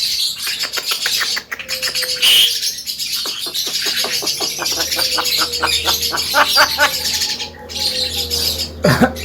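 Javan myna (jalak kebo) singing: harsh chattering and a long run of rapid clicking notes, about six a second, then a loud swooping call near the end.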